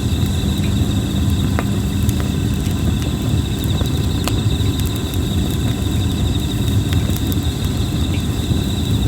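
Red plum-wood campfire burning with a low rumble and occasional sharp crackles and pops, while insects trill steadily.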